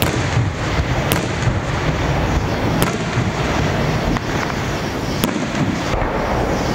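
Aerial fireworks display: a continuous rumble of shell bursts with several sharp cracks standing out, one every second or two.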